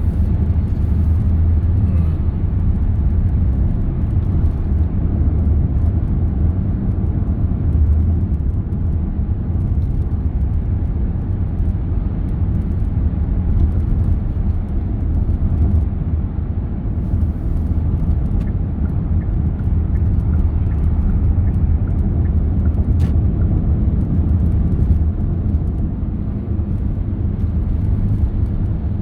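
Steady low rumble of a car on the move: road and engine noise, strongest in the deep bass and unchanging throughout.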